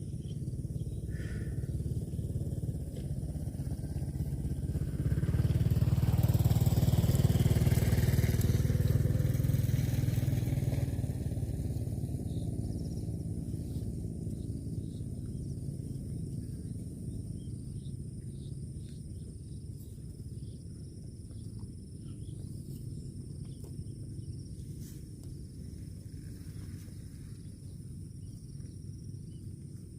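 A motorcycle engine running, growing louder about five seconds in and fading away gradually after about ten seconds.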